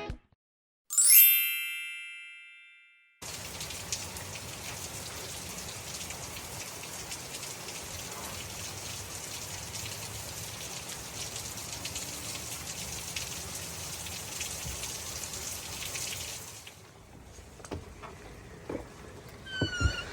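Steady rain falling, an even hiss that drops away near the end. Near the start, a single bell-like chime rings out over about two seconds.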